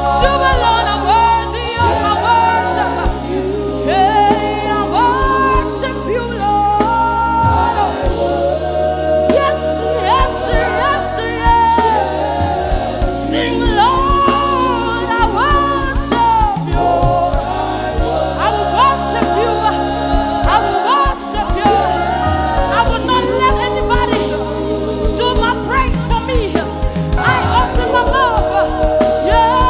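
Live gospel worship music: singers with a choir over a band, with sustained bass notes that change every second or two.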